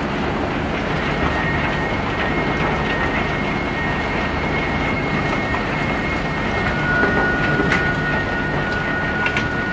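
Self-unloading ship discharging pebbles: a steady rattling clatter of stones running off the unloading conveyor, with a thin high whine above it that drops in pitch about two-thirds of the way through.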